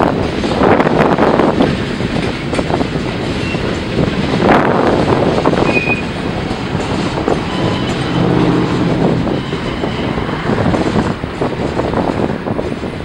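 Freight train rolling past, its wheels clattering over the rail joints, with a few short squeals of steel wheel on rail.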